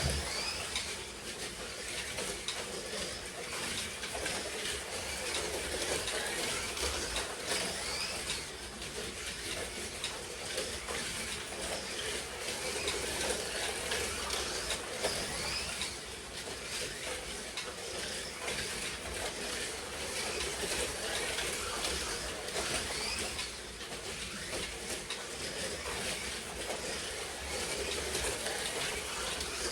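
Slot cars racing on the track: small electric motors whining steadily, with short rising whines again and again as the cars accelerate.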